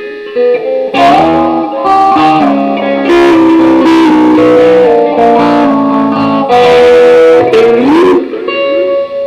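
Electric guitar played unaccompanied: sustained notes and chords starting about a second in, with a note bent up in pitch near the end.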